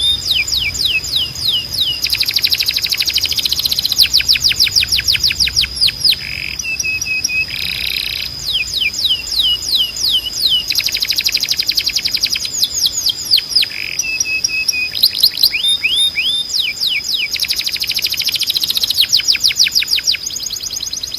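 Timbrado canary singing in long, fast trills of repeated downward-sweeping notes, alternating with rattling passages and a few short held notes. A steady high tone runs underneath throughout.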